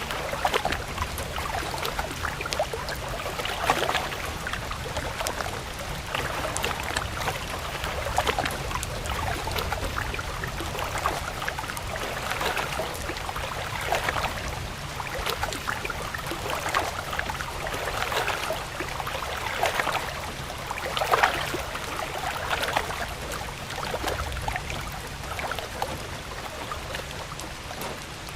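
Running water, a stream trickling and splashing, with many small drip-like clicks and uneven swells every second or two.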